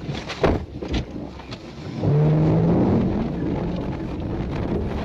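A few sharp knocks, then about two seconds in a pickup truck's engine revs up loud and keeps running hard as the truck pulls away.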